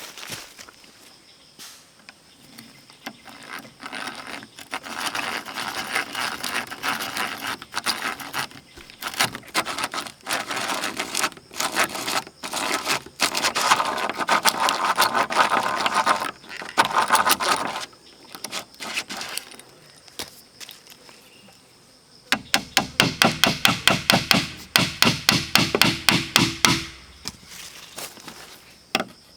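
Hand tools working bamboo or wood: a long stretch of rough scraping and rasping strokes, then after a pause a quick, even run of sharp strokes, about three a second.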